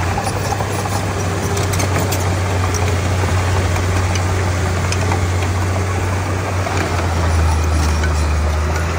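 Diesel engine of a Komatsu D31P bulldozer running steadily with a deep hum, and a deeper, stronger drone coming in about seven seconds in.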